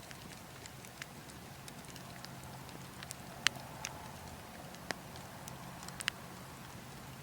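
Burning logs crackling, with scattered sharp pops, the loudest about halfway through, over a steady low wind noise.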